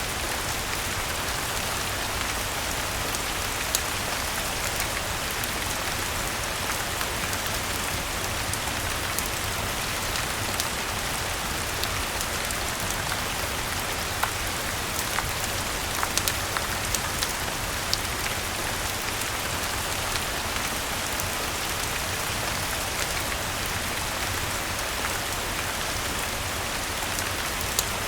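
Steady rain mixed with a crackling fireplace: an even, constant hiss of rainfall with scattered sharp pops and clicks.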